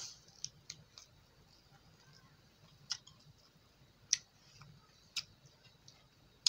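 Close-miked eating sounds from a meal eaten by hand: a short wet slurp as the fingers leave the mouth at the start, then scattered sharp wet clicks and smacks while chewing.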